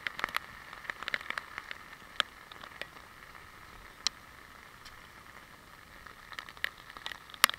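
Rain falling with a steady hiss, and irregular sharp taps of raindrops hitting the action camera's waterproof housing, the loudest tap near the end.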